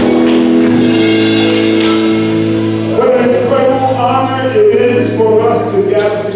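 Gospel worship music: a held chord over a steady bass note, with singing coming in about three seconds in.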